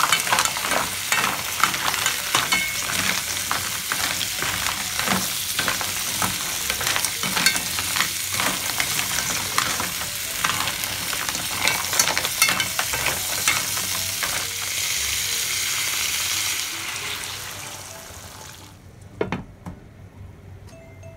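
Green mussels in their shells sizzling in a hot wok as they are stirred with a spatula, the shells clattering against each other and the pan. Near the end a brighter steady hiss, then the sizzle dies down and a single knock as a glass lid is set on the pan.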